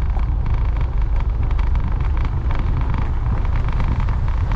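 Steady wind rush and engine and road noise from a motorbike cruising on a highway, dominated by a low rumble.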